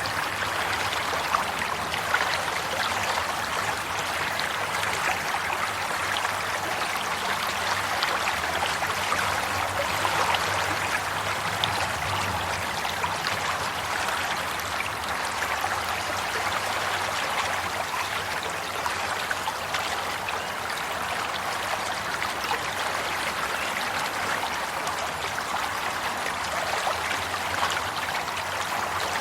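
Flowing water running steadily, a stream-like trickle and babble.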